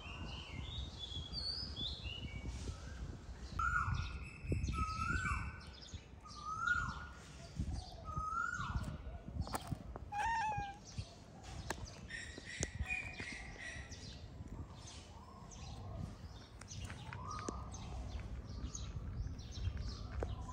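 Birds chirping and calling: a series of short repeated call notes, about one a second for several seconds, among higher twittering.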